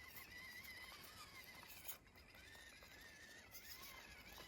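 Near silence: faint background hiss, with faint wavering high tones.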